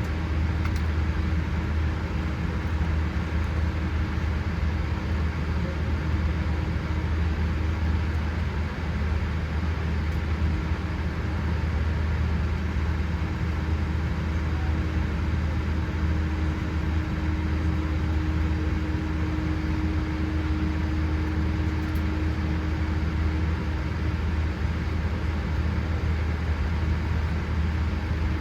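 Steady low rumble and hum inside the cabin of a Boeing 787-8 on the ground before takeoff, with a faint steady tone running through it.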